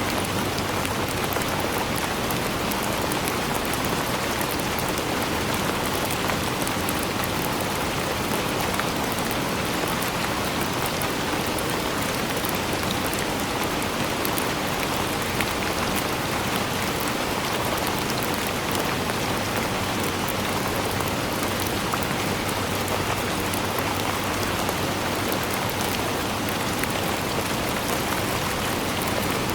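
Steady rainfall: an even hiss of rain with many small drops pattering on a surface.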